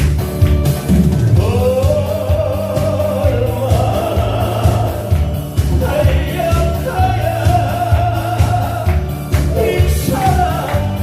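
A singer holding long, wavering notes over an amplified backing track with a steady beat.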